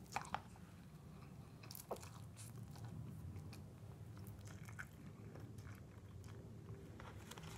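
A mouthful of instant ramen noodles being eaten and chewed, faint, with scattered small mouth and fork clicks, a few sharper ones near the start, over a steady low hum.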